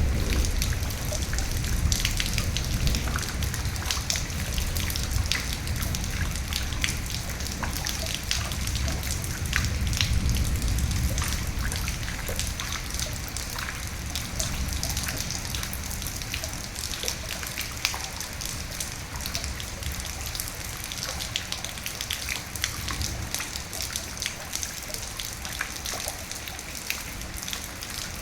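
Steady rain, with many individual drops ticking sharply on a hard surface over the general hiss. Under it runs a low rumble that eases off after about twelve seconds.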